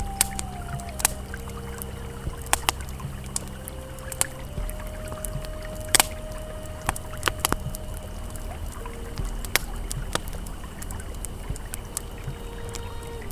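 Campfire crackling with scattered sharp pops, the loudest about six seconds in, over the steady rush of a flowing river. Soft, sustained ambient music tones change pitch every few seconds.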